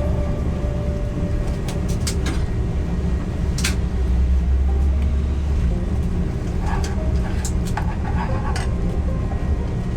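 Steady low rumble that swells for a couple of seconds about four seconds in, with scattered light clicks and clinks over it.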